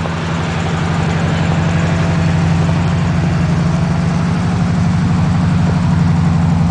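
Chevrolet 400 cubic-inch small-block V8 idling steadily through 2.5-inch exhaust pipes, a fast even low pulse that grows slightly louder.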